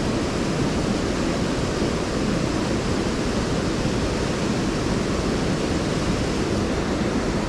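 Mountain stream water rushing, a steady, even noise with no breaks.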